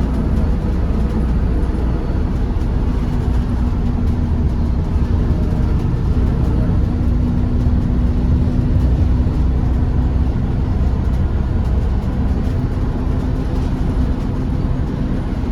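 City bus running along, heard from inside the cabin: a steady low rumble of engine and road noise with a constant hum.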